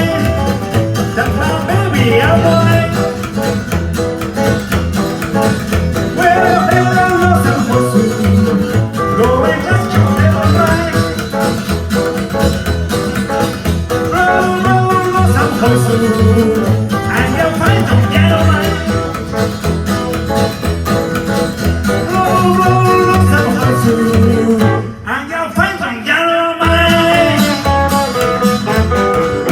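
A band playing live with guitar and singing, over a steady low bass rhythm. The sound drops back for a moment near the end, then the full band comes back in.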